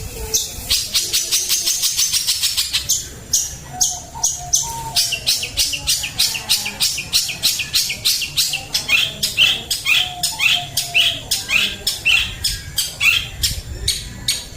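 Long-tailed shrike (cendet) singing: a rapid, unbroken series of sharp, clipped chattering notes, becoming short downward-sweeping calls in the second half.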